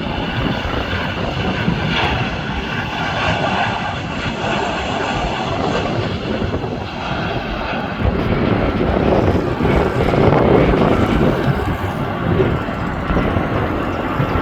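Jet airliner's engines as it comes in to land: a steady rush of jet noise that swells about eight seconds in, with a faint thin whine near the end.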